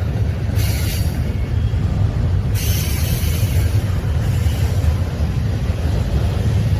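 A train rolling past with a steady, heavy low rumble. Stretches of high hiss come and go over it, about half a second in and again from about two and a half to four seconds.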